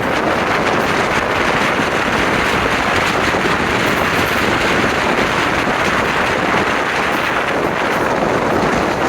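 Moving train: a loud, steady rushing noise of wind and running gear, without a clear wheel-beat rhythm.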